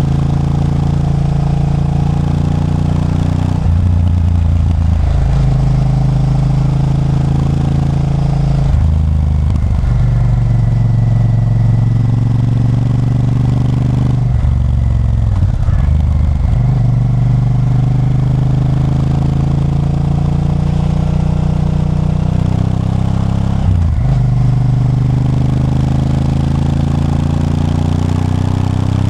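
Honda Varadero 1000's 90-degree V-twin engine running under way, with steady low engine tones whose pitch breaks and shifts about four times and climbs near the end.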